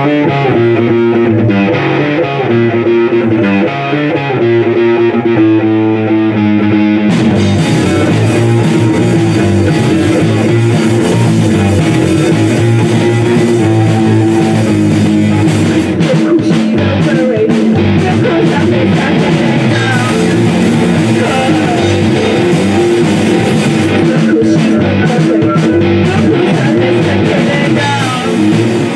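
Live rock band playing a song. A guitar plays a picked pattern alone at first, and drums with cymbals and the rest of the band come in about seven seconds in.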